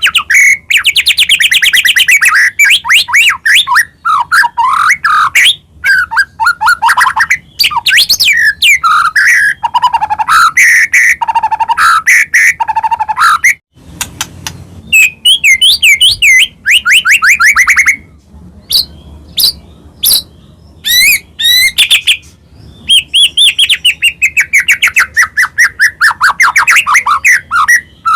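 White-rumped shama (murai batu) singing a long, varied song of rapid trills, clear whistles and sweeping up-and-down notes, in phrases separated by short pauses. It breaks off briefly about halfway, then gives a few scattered notes before another long phrase.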